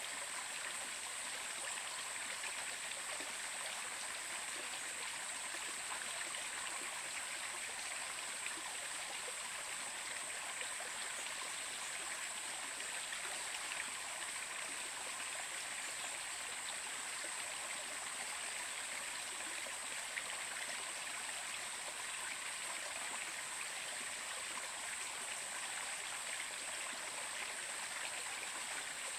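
Stream water flowing steadily, an even rushing and trickling with no breaks, under a thin steady high-pitched whine.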